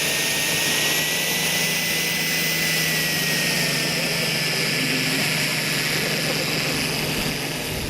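Model Pilatus Porter's kerosene-fuelled turboprop engine running steadily with its propeller turning: an even rush with a low hum and a thin high whine that rises a little and then eases back. It runs quiet, like an electric motor.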